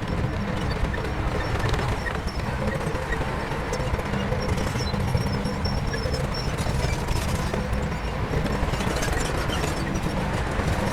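Heavy diesel earthmoving equipment running steadily, with a fast rattling clatter over a deep engine rumble.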